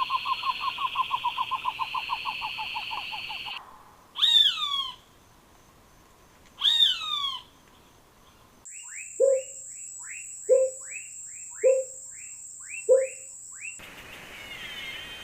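Tropical forest animal sounds in abrupt cut-together segments. First comes a fast trill of rapid notes over a steady insect drone, then two separate descending whistled bird calls. After that come four low hoots about a second apart over rapid chirping and a high, steady insect whine.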